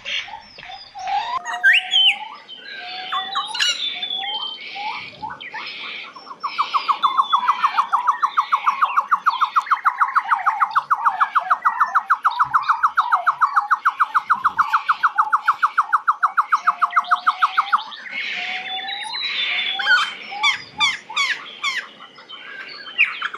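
Forest bird calls, taken to be the haruai (ruai), the great argus pheasant: short sliding call notes at the start and end. In the middle comes a long, even run of loud, rapidly repeated notes, about four a second, lasting roughly eleven seconds. A faint high insect buzz runs underneath.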